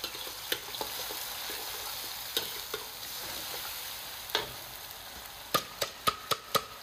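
Sliced onions and ground ginger-garlic paste sizzling in hot oil in a wok while a metal spatula stirs and scrapes them, clanking against the pan now and then. Near the end comes a quick run of about five sharp clanks.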